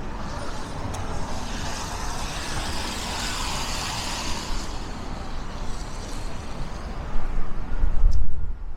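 Street traffic: a road vehicle passes, its tyre and engine noise swelling to a peak and fading away over a few seconds. Heavy low rumbling gusts follow near the end, typical of wind buffeting the microphone.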